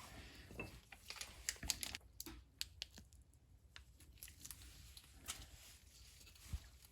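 Faint, scattered small clicks and crinkling as brake pads and their metal and rubber-coated shims are handled.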